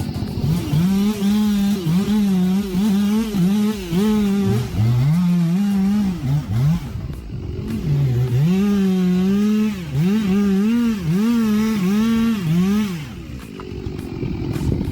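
Two-stroke chainsaw engine running at high revs, its pitch dipping and rising over and over as it bogs and frees up. It runs in two long stretches with a short break about seven seconds in, and the engine note stops about a second before the end, leaving a rougher noise.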